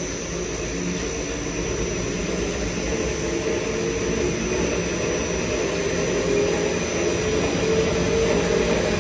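300-litre kneader mixer's electric motor and hard-tooth-face gear reducer driving the double sigma blades in reverse, a steady machine hum that grows gradually louder as the shaft speeds up toward maximum speed.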